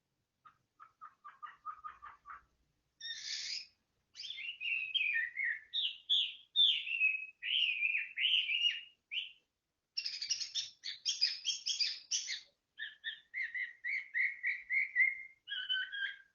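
Songbird singing a long, varied song: a quick run of short chirps, then warbled phrases, dense rapid trills and a string of repeated whistled notes.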